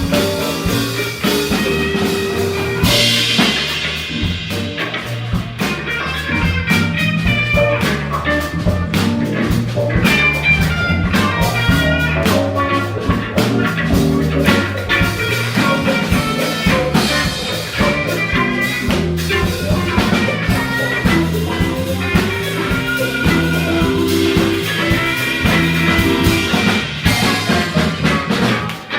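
Live funk band playing an instrumental groove: electric bass line, drum kit, electric guitar and keyboards, with a cymbal crash about three seconds in.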